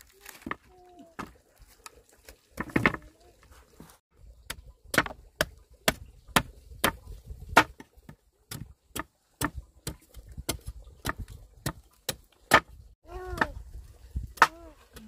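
Repeated chopping strokes, a blade striking down about two to three times a second for several seconds, with a short high voice calling near the end.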